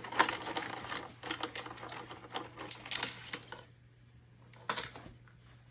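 Rapid clicking and rattling of hard plastic toy parts being handled, dense for about three and a half seconds, then a single click near the end.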